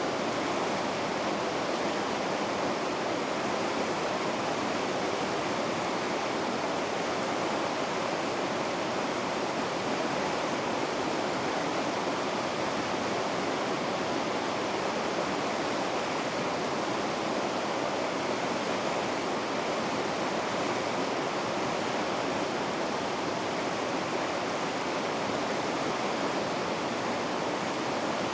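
Rapids rushing: a steady, even roar of fast-flowing river water over rocks.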